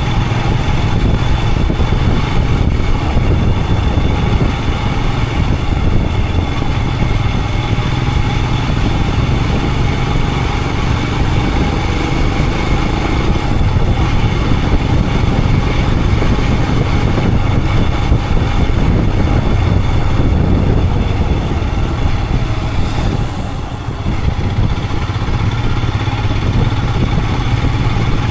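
Royal Enfield Himalayan 411's single-cylinder engine running steadily as the motorcycle rides along, with a short dip in loudness a little before the end.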